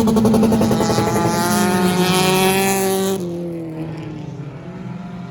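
Stock car engine running loud close by, its pitch sliding lower as it goes past. A little past three seconds in the sound drops away suddenly, leaving quieter race engines.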